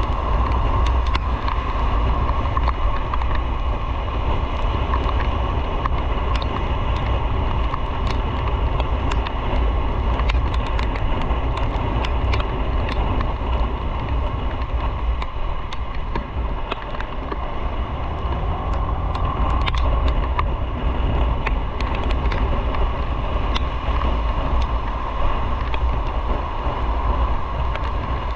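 Motorcycle riding along: a steady low engine and wind rumble with scattered light ticks, dipping slightly about two-thirds of the way through.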